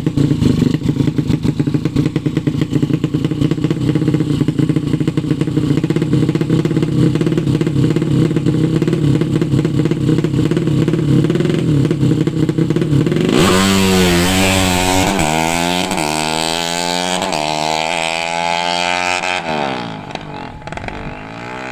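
A 200 cc drag-bike motorcycle engine runs at a steady low speed with a choppy note. About two-thirds of the way in it is revved hard, and the pitch climbs quickly and keeps rising. Near the end the throttle is let off and the engine winds down.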